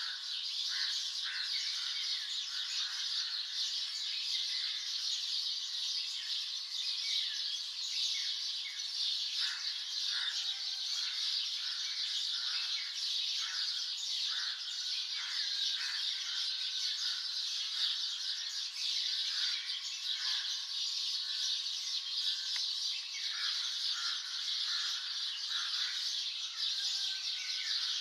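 Many birds chirping and calling at once: short, quick notes overlapping one another over a dense, steady high chorus.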